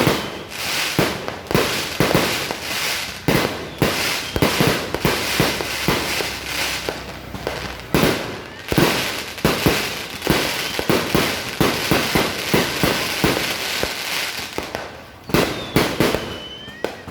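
Fireworks going off in dense, rapid succession: many sharp bangs with crackling between them, and a short whistle near the end.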